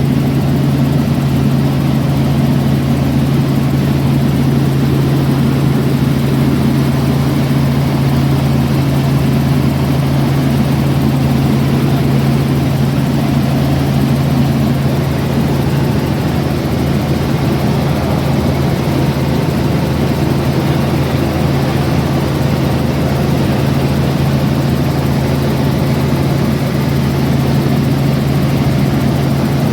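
Aircraft engine running steadily at a constant pitch, a loud, even drone with no change in speed.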